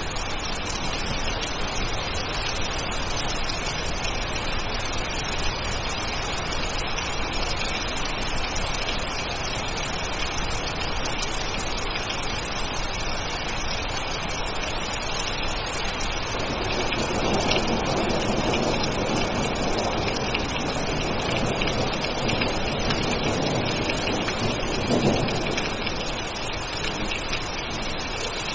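Steady heavy rain falling, with a louder swell in the second half that peaks briefly about 25 seconds in.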